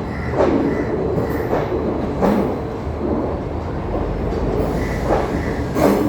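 Passenger express train rolling out of a station: its wheels clack over the rail joints every second or so over a steady rumble.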